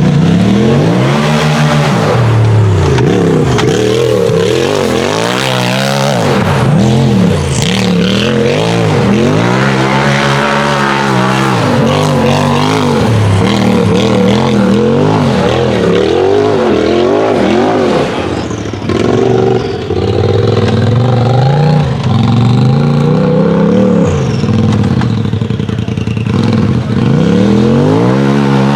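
UTV race buggy engine revving hard, its pitch climbing and falling again and again as the throttle is worked on and off, with a short lull about two-thirds of the way through.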